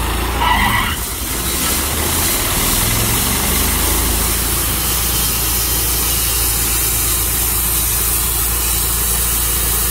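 Tru Cut sawmill running steadily under power, with a brief high squeal about half a second in.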